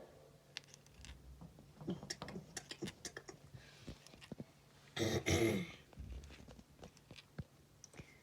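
Scattered light taps and scratches, with a short throat-clearing sound from a person about five seconds in.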